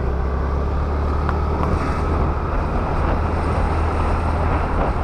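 Honda Activa scooter on the move: a steady low drone of engine and road noise with wind rushing over the microphone.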